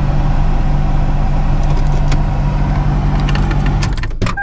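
A car engine running steadily while the vehicle rolls forward over aluminum scrap, with scattered crackling crunches of the metal being flattened from about the middle on. The engine stops shortly before the end.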